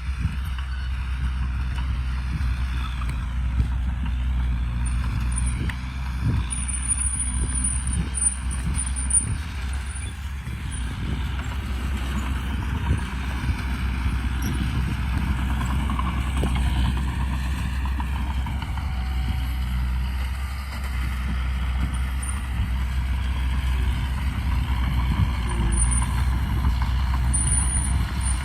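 Heavy diesel earthmoving machinery running steadily under load, with scattered clanks and knocks and a thin high squeal that comes and goes.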